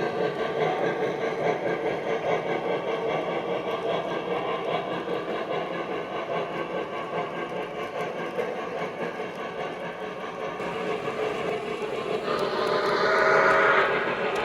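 O-gauge Lionel Legacy L2a Mohawk model steam locomotive running on the layout, its onboard sound system and wheels on the track making a steady sound. A louder whistle sounds near the end.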